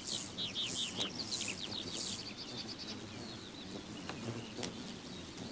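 Bird chirping in a quick series of short high calls, dense for about the first two seconds, then sparser and fainter, over a soft outdoor hiss.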